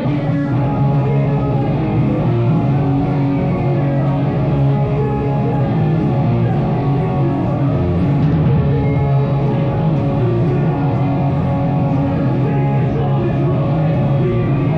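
Live rock band playing: guitars, bass and drum kit.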